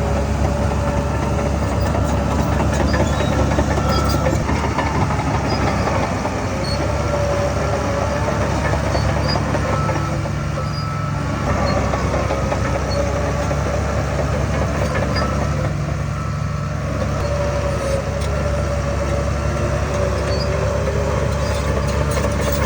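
Heavy diesel earthmoving machinery running steadily: a constant low engine rumble with a held higher-pitched whine over it.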